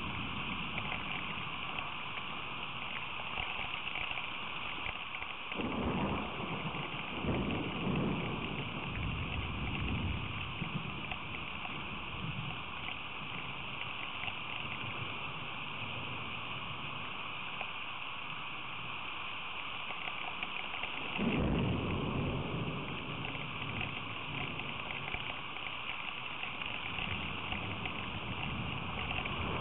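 Steady hiss of heavy rain, with low rumbles of thunder rolling in twice, a few seconds in and again about two-thirds of the way through.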